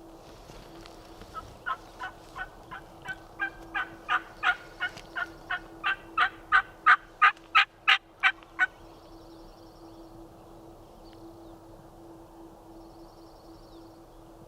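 A long series of about twenty turkey yelps, about three a second, growing steadily louder and then stopping abruptly.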